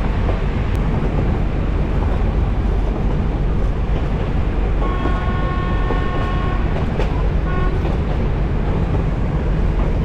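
Nilgiri Mountain Railway train hauled by a YDM4 diesel locomotive, running with a steady rumble. The locomotive's horn sounds about five seconds in for nearly two seconds, then gives a short toot about a second later.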